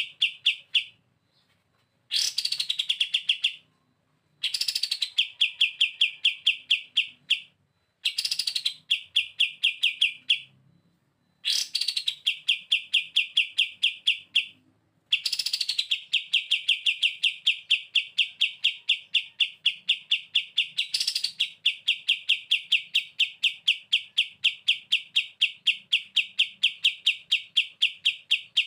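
Kapas tembak singing in the 'ngebren' style: a rapid rattling trill of repeated high notes, each burst opening with a falling note, in several bursts of a couple of seconds with short pauses between them, the last running on for over ten seconds.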